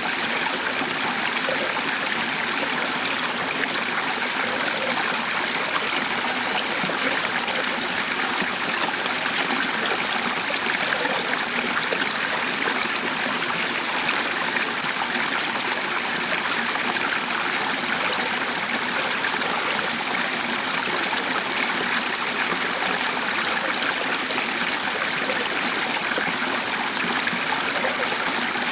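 A stream of water running steadily, an even, unbroken rush of flowing water.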